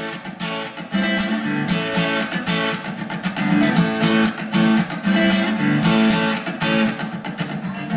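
Acoustic guitar strummed in a steady rhythm, chords ringing, with no voice yet.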